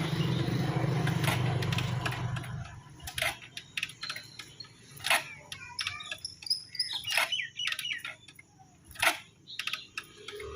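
TVS Apache motorcycle engine running, then cutting out about three seconds in. After it, a few sharp knocks come about two seconds apart, with birds chirping.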